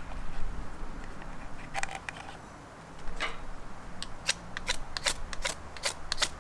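A series of sharp clicks and snaps: a few scattered ones, then a quick run of about ten over the last two and a half seconds.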